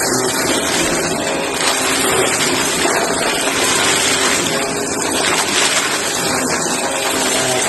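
Green Shark vacuum cleaner running steadily while vacuuming up shredded cardboard, a loud, even rush of air with a faint motor hum underneath.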